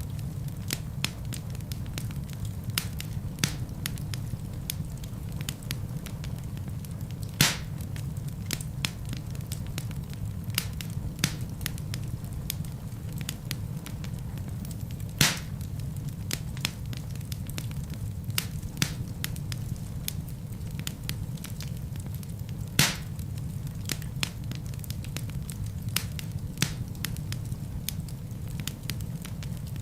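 Wood logs burning in a fireplace: a steady low rumble of flame with constant irregular crackling, and a few louder pops about every seven or eight seconds.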